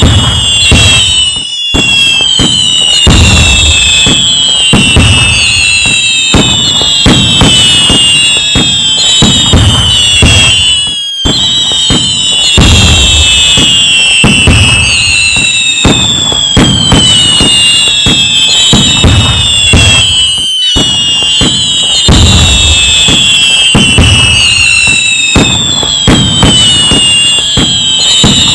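A dense fireworks barrage: continuous bangs and crackling, with many high whistles falling in pitch. The same stretch repeats about every nine and a half seconds, each time after a brief dropout.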